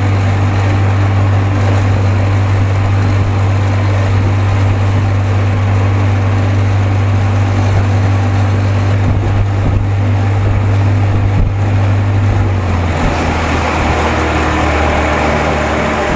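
Evinrude 55 hp two-stroke outboard running steadily at speed under load, with wind and water rush around the hull. Its low engine note drops a little about thirteen seconds in.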